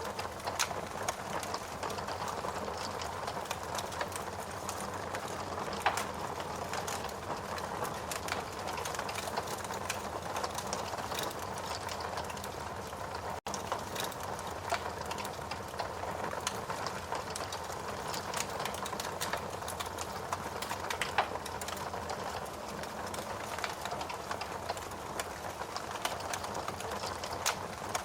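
Wood fire crackling in a fireplace: a steady hiss of burning logs with many small sharp pops and a few louder cracks scattered throughout. The sound cuts out for an instant about halfway through.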